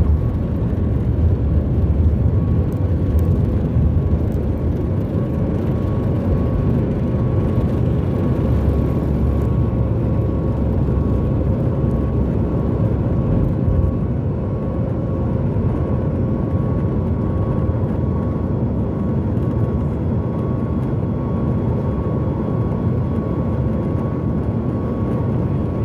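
Steady cabin noise of a Boeing 737 MAX 8 in flight: the deep, even rumble of its CFM LEAP-1B turbofans and the airflow, with a faint steady whine held at one pitch over it.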